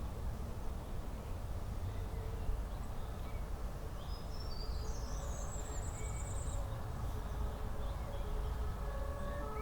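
A steady low rumble runs throughout. About halfway through, a songbird sings one short high phrase ending in a rapid trill. Just before the end, several steady held tones begin.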